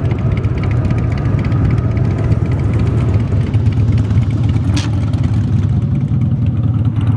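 Several big cruiser motorcycles idling together, a steady loud low rumble, with a brief hiss about five seconds in.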